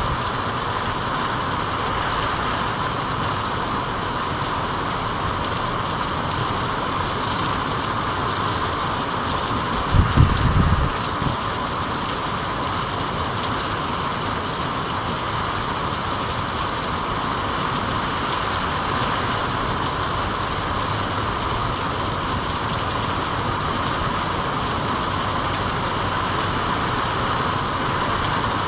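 Steady rain falling, an even hiss. A brief low thump comes about ten seconds in.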